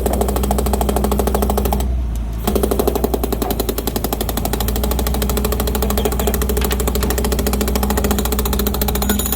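Pneumatic chipping hammer rapidly hammering hardened concrete in a ready-mix truck's drum, stopping briefly about two seconds in, over a steady engine drone.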